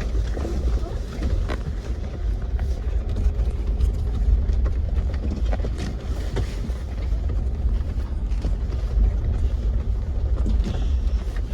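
Jeep driving over a rough, rocky dirt trail: a steady low rumble of engine and tyres with scattered knocks and rattles as it jolts over the bumps.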